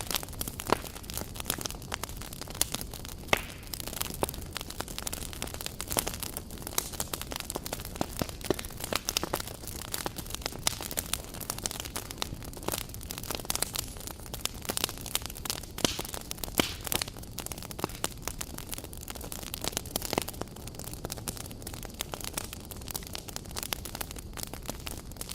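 Wood campfire crackling: a steady stream of irregular sharp snaps and pops over a low, even rumble of burning.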